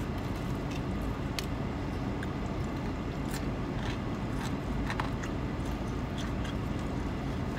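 Someone biting and chewing a fried chicken thigh, faint scattered crunches and smacks over a steady low hum in a car's cabin.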